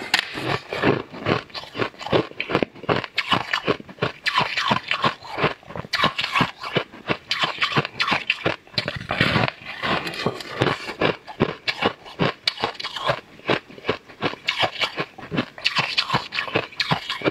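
Close-up crunching as hard, crystalline purple slab is bitten off and chewed, with quick, sharp crunches following one another in rapid runs.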